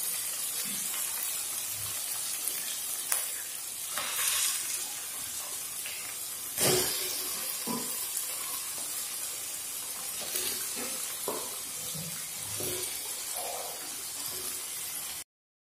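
Raw chicken pieces going into hot oil with fried onion and tomato in an aluminium kadai: a steady sizzle broken by a few knocks, the loudest about six and a half seconds in. The sound cuts off suddenly near the end.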